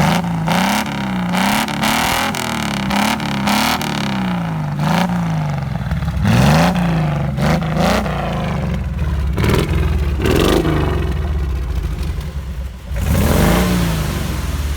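Jeep CJ5's 4.2-litre AMC straight-six engine revved through its exhaust: quick blips rising and falling in pitch one after another, then after about eight seconds a few separate revs.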